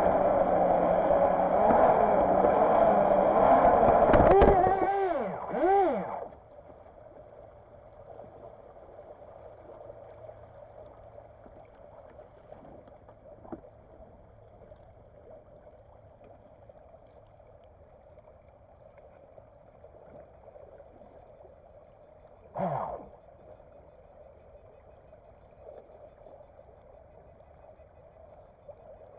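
RC jet boat's motor and water jet running steadily, then wavering up and down in pitch before cutting off about six seconds in. After that, only faint water gurgling and lapping around the idle hull, with one brief sound falling in pitch about three quarters of the way through.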